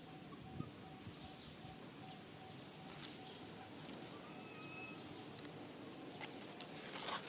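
Faint outdoor ambience: a steady background hiss with a soft pulsing tone, scattered small clicks, a short faint whistled call about two-thirds of the way in, and a brief rustle near the end.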